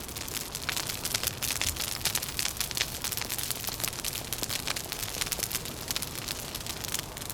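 Wood fire crackling: a dense, irregular run of small pops and snaps over a soft hiss.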